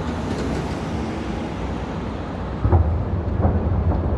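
Steady low outdoor city rumble with wind on the microphone. About two and a half seconds in comes a dull low thump, followed by a couple of lighter knocks.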